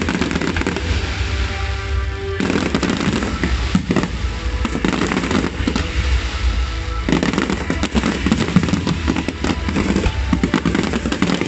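Aerial firework shells bursting in a dense, overlapping barrage, bang after bang with no let-up over a continuous low rumble.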